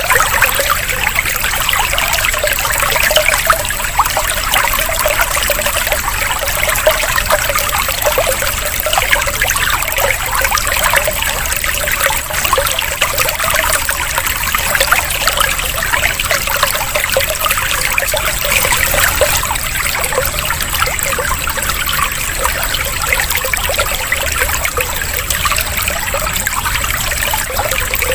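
Water trickling and splashing steadily, a continuous flow like a small stream or fountain, with a faint steady high-pitched tone beneath it.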